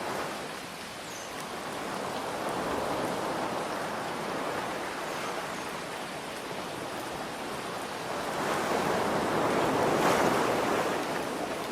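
Ocean waves washing in over a steady hiss of rain, with two swells: a gentle one about three seconds in and a bigger one near the end.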